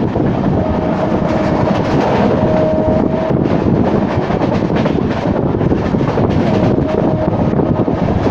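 Moving passenger train running at speed: steady rumble of the wheels on the track with wind on the microphone. A thin steady whine comes in twice, briefly.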